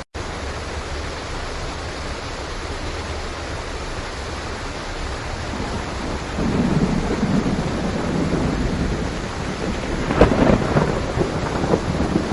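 Steady heavy rain with rolling thunder: a low rumble swells about six seconds in and a louder crackling peal of thunder breaks around ten seconds. A split-second drop-out cuts the sound just at the start.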